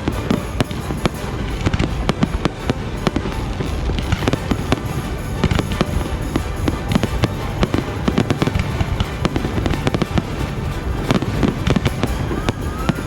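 Fireworks display going off in rapid, continuous volleys: many irregular bangs and crackles over a low rumble, with no pause.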